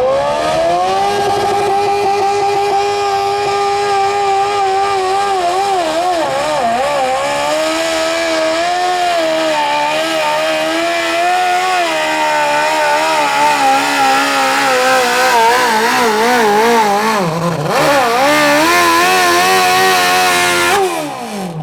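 Modified lawn tractor's engine at full throttle on a pull: it revs up at the start and runs hard under load for about twenty seconds, its pitch wavering up and down as it drags the sled. Near the end it dips, runs high again, then falls away sharply as the throttle is let off.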